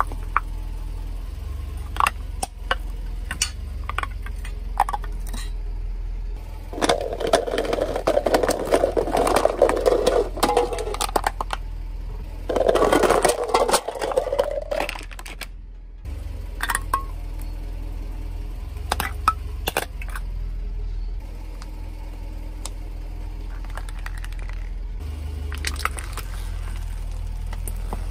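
A car tyre rolling over a plastic toy bird, crunching and cracking it in two longer crackling stretches, with scattered sharp clicks of breaking plastic. A steady low engine hum runs underneath.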